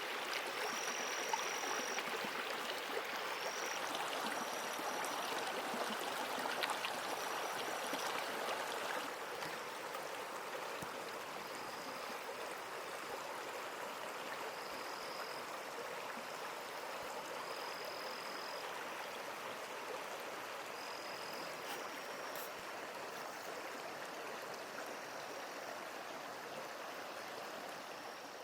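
A stream running over rocks with a steady rush that eases a little about a third of the way in. Short, high, steady notes come every few seconds over it.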